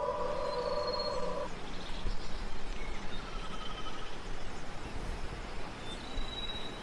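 Steady rushing of a waterfall with a few short, thin bird calls over it. A held background-music chord cuts out about a second and a half in.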